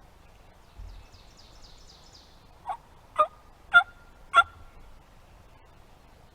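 Turkey yelps: four short, loud notes about half a second apart, each breaking in pitch.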